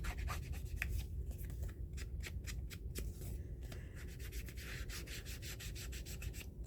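Hand-held crafting tool rubbed quickly over paper in short, even strokes, about four a second, as a paper card is being finished off.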